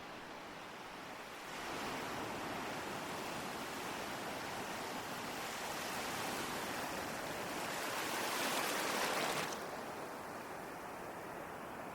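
Ocean waves: the surf noise swells about a second and a half in, builds to its loudest a little past two-thirds of the way through, then falls away suddenly.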